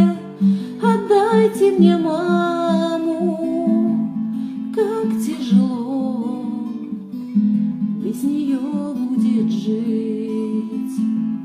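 Acoustic guitar played with a woman singing over it.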